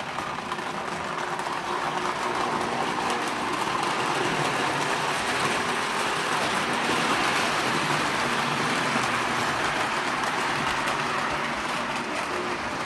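Model train running on the track: a steady rumble and whirr of wheels and motor that grows louder toward the middle and then eases off as it passes.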